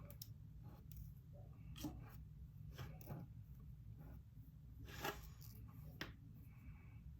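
Near silence with a few faint scattered clicks and light rustles: small plastic items such as a drill tray and bags being handled.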